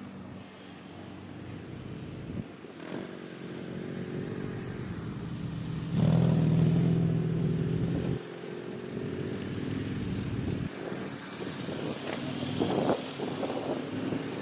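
Motorcycle engine running, heard in several short stretches that change abruptly, the loudest about six to eight seconds in.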